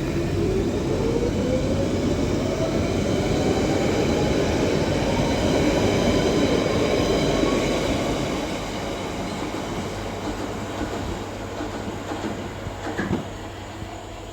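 London Underground 1992 stock Central Line train pulling away from the platform, its traction motors whining upward in pitch as it accelerates over the rumble of wheels on rail, then fading as it leaves. A single sharp clack comes near the end.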